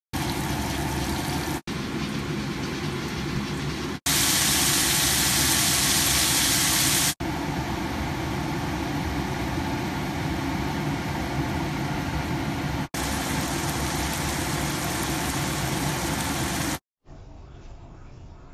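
Three-cup chicken sizzling and bubbling in a wok, heard as several short clips joined with abrupt cuts. The sizzle is loudest and brightest from about four to seven seconds in. Near the end it gives way to a much quieter hiss.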